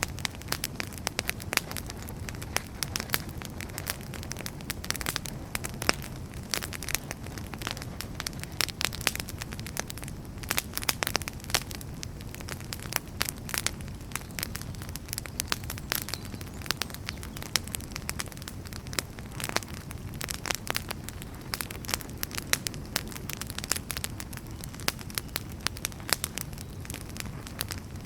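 Wood fire crackling: burning firewood giving dense, irregular sharp pops and snaps over a steady low rumble of the flames.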